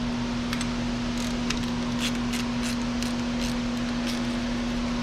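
A steady one-tone hum, like a shop fan or compressor, with light, irregular clicks of hand tools being worked on the engine's spark plugs.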